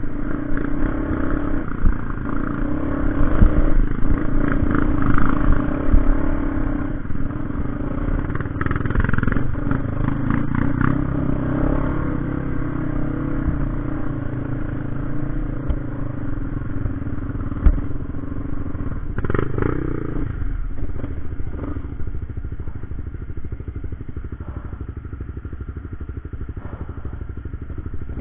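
A vehicle engine running steadily, with clattering and occasional knocks; the engine note eases off about two-thirds of the way through.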